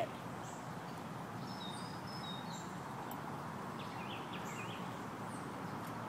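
Steady outdoor background noise with a few faint, short, high bird chirps, a cluster about a second and a half in and another around four seconds.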